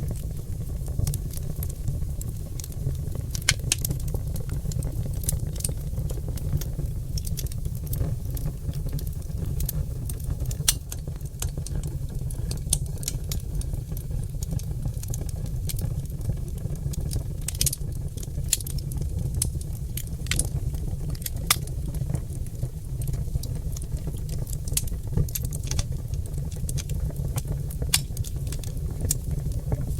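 Oak logs burning in an open fireplace: irregular sharp crackles and pops over a steady low rumble of the flames.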